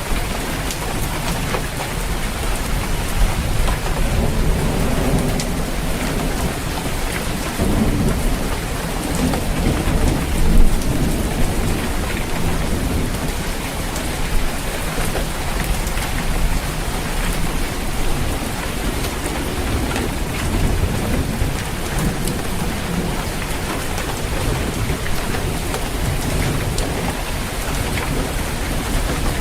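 Heavy rain falling steadily on a roof, with low rolls of thunder, the strongest about ten seconds in.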